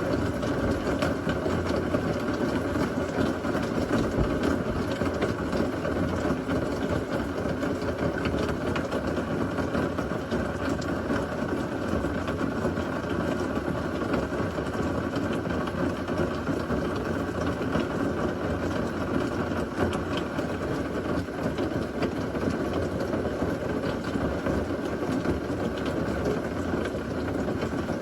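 Steady rain from a severe thunderstorm, an even, unbroken noise with no thunderclap.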